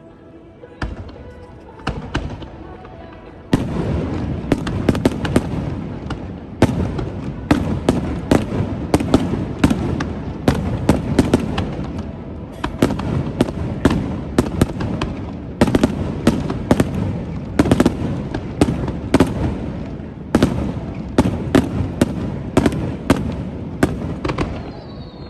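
Japanese fireworks display: a few separate shell bursts, then from about three and a half seconds in a dense barrage of bangs, several a second, that goes on to the end.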